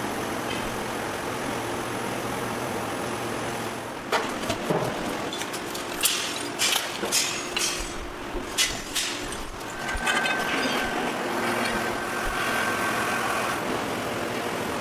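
Heavy machine's engine running steadily, with a run of sharp clanks and knocks in the middle.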